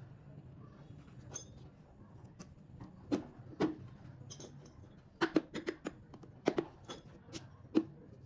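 Irregular sharp clicks and light knocks of small hard objects being handled, about ten in all and bunched from about three seconds in, over a steady low hum.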